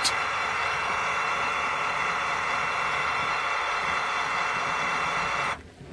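Model railroad locomotive running with a steady engine sound, which cuts off suddenly near the end.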